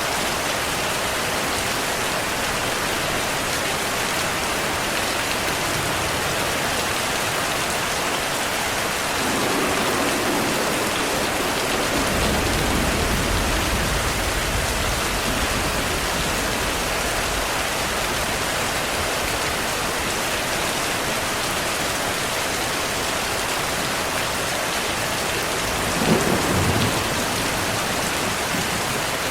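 Heavy rain pouring steadily, with thunder rumbling in low about a third of the way in and a sharper, louder thunderclap near the end.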